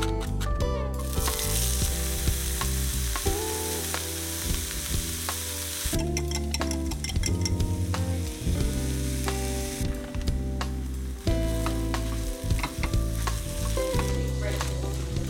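Food frying and sizzling in a pan, loudest from about a second in until about six seconds, over background music.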